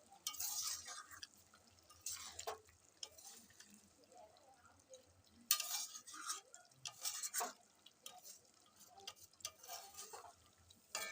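A spatula stirring and scraping chicken curry in a metal pan, in short irregular strokes.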